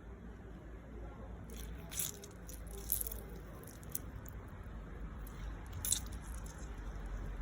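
Food being handled during cooking: soft crunching and squishing, with a few sharp clicks, over a steady low rumble.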